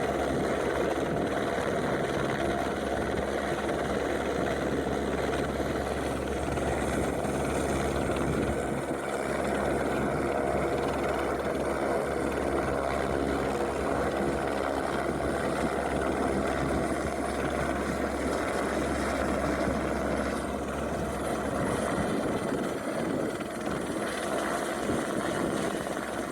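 Airbus AS350 helicopter holding in a hover on a long-line lift, its rotor and turbine running steadily, with a low rumble that thins out about 22 seconds in.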